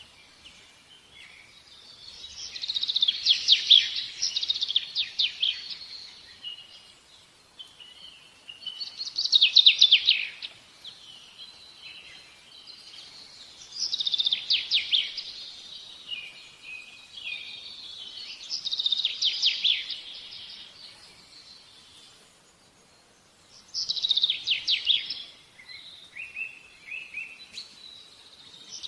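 A songbird singing: bursts of rapid, high trilled song that come about every five seconds, with softer twittering between them.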